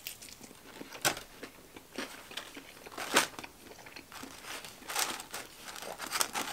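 Chewing a bite of breaded fried chicken finger, with short crunchy, crackling clicks every second or so. Fingers picking at fries in a foam takeout box add light crinkling.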